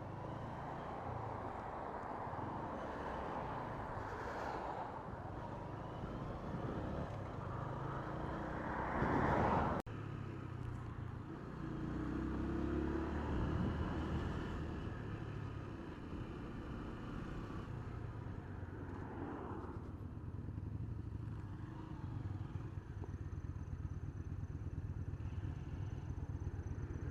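Honda CG125 single-cylinder four-stroke engine running as the motorcycle is ridden, with wind rush on a helmet-mounted microphone. The sound swells, then breaks off abruptly about ten seconds in before carrying on.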